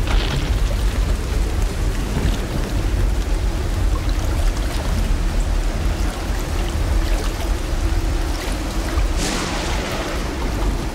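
Steady rain falling, with a continuous low rumble underneath. The rain swells louder for a moment about nine seconds in.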